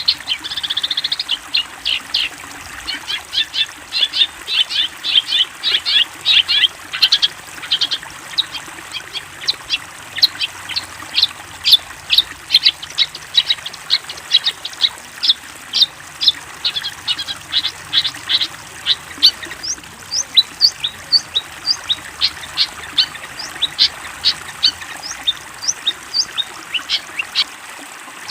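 A songbird calls in a rapid run of short, sharp, high notes, about three a second, with no pause. The notes get higher and thinner about twenty seconds in. This is bird-song training (masteran) audio for long-tailed shrikes.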